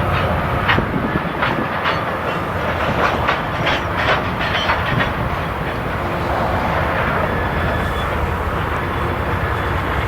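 Train rolling past on the main line, a steady rumble with its wheels clicking over rail joints through the first half.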